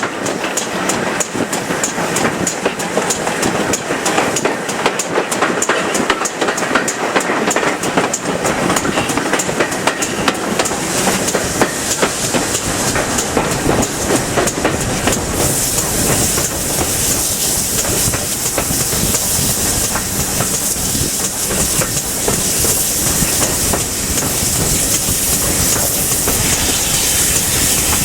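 Steam train hauled by a GWR Manor-class 4-6-0 locomotive, running with a fast, dense run of beats and wheel clatter. A loud steam hiss builds up from about halfway through.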